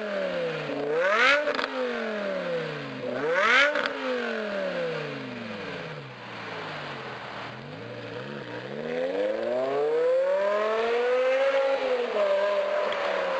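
BMW M6's V10 engine breathing through a Meisterschaft GT exhaust with quad tips, revving up sharply twice with a brief crack at the top of each rise. The revs then fall away, climb slowly again and settle to a steady pitch near the end.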